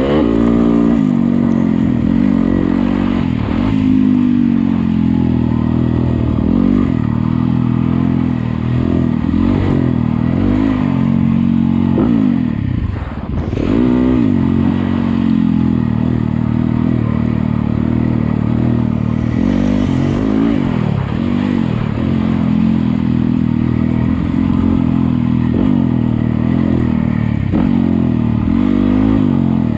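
Yamaha YZ250FX four-stroke dirt bike engine running under riding load, its pitch rising and falling again and again as the throttle opens and closes, with a short drop in revs about a third of the way through.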